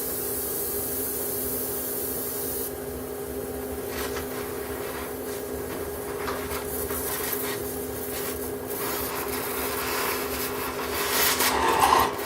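Steady machine hum under a rough hissing noise. The bright high part of the hiss cuts off suddenly about two and a half seconds in, and the noise swells louder near the end.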